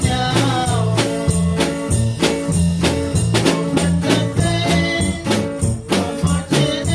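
Live church band playing an upbeat gospel instrumental: a steady drum-kit beat under bass and guitar.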